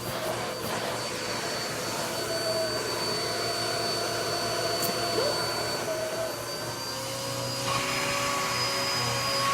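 Vacuum cleaner running with a steady high whine. About eight seconds in, its tone shifts and it grows hissier.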